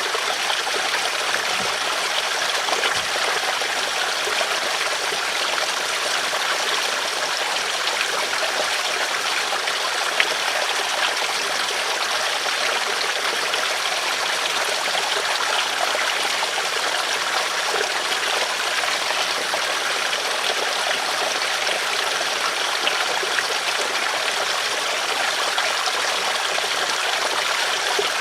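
River water flowing and babbling over stones in a steady stream.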